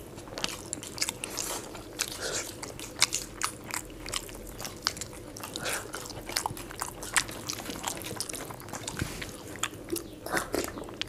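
People eating by hand, chewing rice and curry: close mouth sounds with many sharp, irregular clicks.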